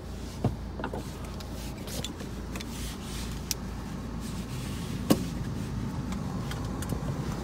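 Mini Countryman diesel engine idling, heard from inside the cabin as a steady low rumble, with a few sharp clicks, the loudest about five seconds in.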